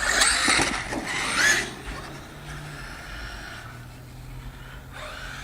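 Battery-powered RC truck driving hard: a loud burst of electric motor whine and tyre scrabble in the first couple of seconds, then it drops to a faint low hum.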